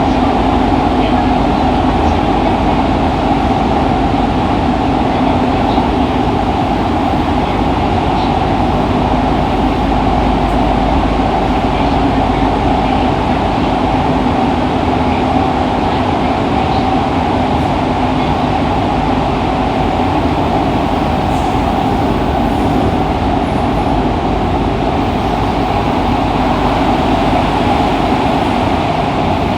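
Fukuoka City Subway 2000 series electric train running at a steady speed: continuous wheel-on-rail and car running noise picked up from the car floor, with no rising or falling pitch.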